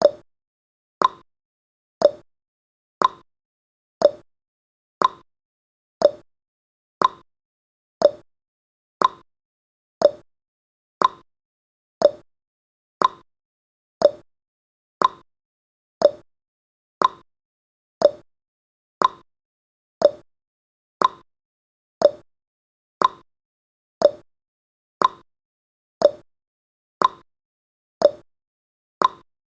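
Clock-tick sound effect of a countdown timer: one short, sharp tick every second, at a steady even pace.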